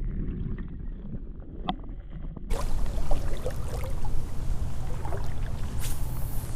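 Water sloshing and splashing in a shallow creek over a steady low rumble of wind on the microphone; about two and a half seconds in the sound suddenly turns brighter and fuller.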